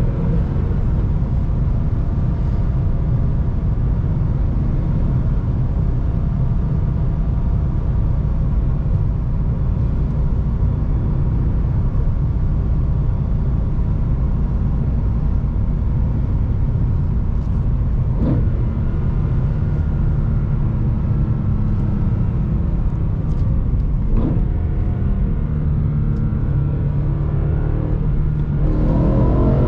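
BMW E92 M3's V8 engine through an Akrapovic exhaust, driven with a manual gearbox: the engine note falls away at the start, settles into a steady low drone at cruise, then climbs in pitch again near the end as the car accelerates. Two brief sharp sounds come in the middle.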